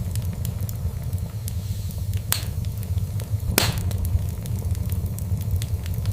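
Wood fire crackling in a fireplace over a steady low rumble of flame. It gives many small ticks and two sharp, louder pops, one a little after two seconds in and one about a second later.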